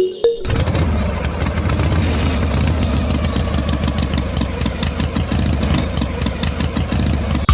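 An engine running steadily with a fast, even pulse. It starts suddenly just after the beginning and cuts off abruptly at the end.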